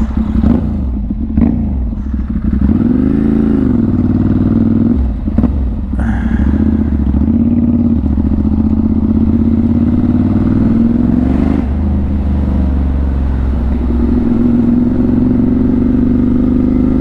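Motorcycle engine running under way, heard from a microphone inside the rider's helmet. It revs up and back down a few seconds in, with a few sharp knocks, then pulls steadily with its pitch slowly climbing near the end.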